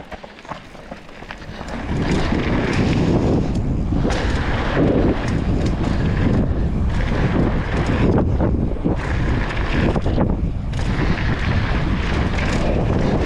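Wind buffeting the camera microphone while riding a mountain bike fast downhill, a loud rumbling rush that swells about two seconds in and stays up.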